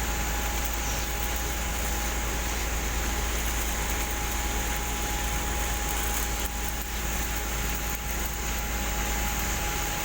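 Steady noise of shotcrete spraying: a high hiss of compressed air and concrete from the nozzle over the low rumble of the machinery, with a steady whine running through it.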